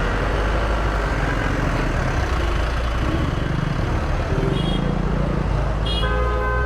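Riding a motor scooter through city traffic: a steady low rumble of road and wind noise, with vehicle horns honking briefly about four and a half seconds in and again, longer, near the end.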